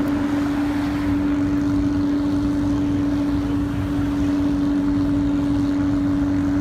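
Car engine held at steady revs, a constant droning note that neither rises nor falls, over a low rumble.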